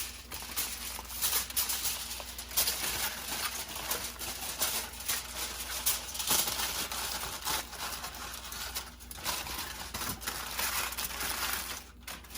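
Aluminium foil crinkling and rustling as it is handled, with irregular sharp crackles.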